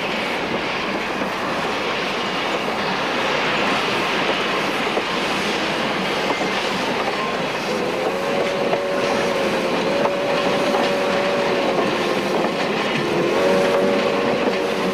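Virginia and Truckee train running along the track with a steady rumble. From about eight seconds in, the locomotive's whistle sounds a chord of notes in several long blasts.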